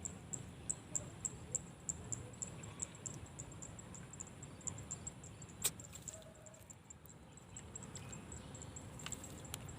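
Wind rumbling on the microphone, with fast, irregular high-pitched ticking over it and one sharp click a little past halfway.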